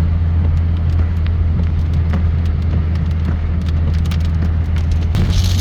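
Steady low rumble of an idling car engine, with scattered sharp ticks of raindrops landing on a surface. A rain hiss comes in near the end.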